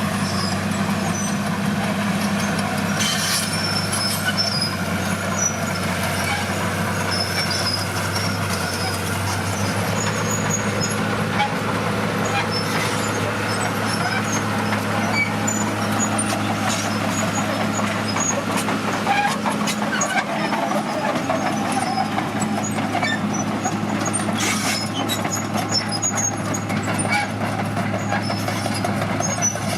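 Heavy diesel construction machinery running steadily, a deep engine drone with scattered clanks and knocks; the engine's low note changes about ten seconds in.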